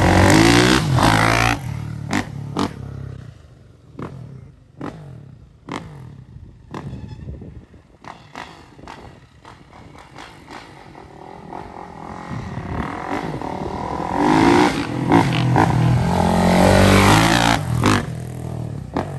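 Kawasaki KX450F dirt bike's single-cylinder four-stroke engine revving loud and mean, fading away within the first couple of seconds as it rides off, then growing louder again from about twelve seconds in as it comes back by, and dropping off near the end. Scattered clicks and clatter are heard while it is distant.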